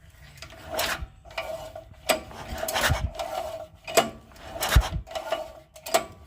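Honda GX200 single-cylinder engine being turned over slowly by hand with its spark plug out: a series of mechanical rubbing, rasping strokes, roughly one a second, each carrying a short metallic ring.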